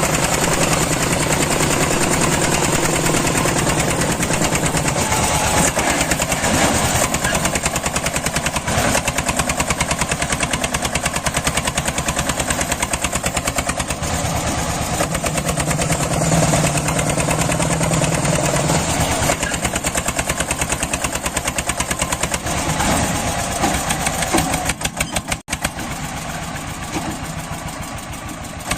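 Mini tractor engine running steadily with a rapid, even firing beat.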